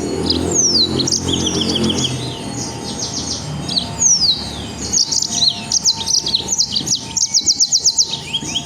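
A songbird singing a loud, dense chattering song made of rapid-fire bursts of repeated notes ('nembak', shooting) and down-sliding whistles, with a quick run of about ten notes a second near the end. The song is the kind used as masteran, a model song for training caged birds. A low hum sits underneath in the first two seconds.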